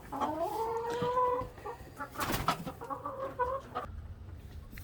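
Domestic chickens clucking: one long drawn-out call that rises and then holds for about a second and a half, then shorter clucks around three seconds in. A brief scratchy noise comes about two seconds in.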